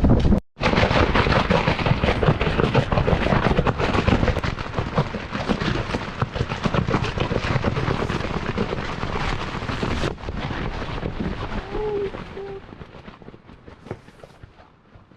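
Tent fabric flapping and cracking hard in a gale, with wind buffeting the microphone; the flapping eases off over the last few seconds.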